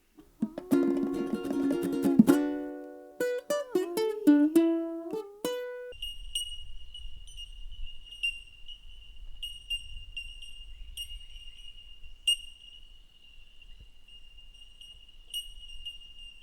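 A few seconds of plucked-string music, like a ukulele, then bell miners calling: a run of short, clear, high 'tink' notes at one steady pitch, repeated over and over in a bell-like tinkle.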